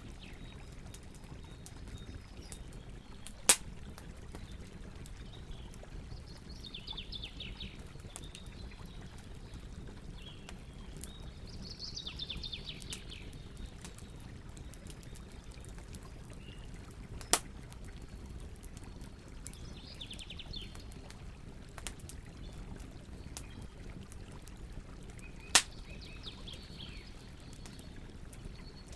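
Campfire crackling with faint clicks and three loud pops, over a steady rush of river water. A bird calls in short trills every several seconds.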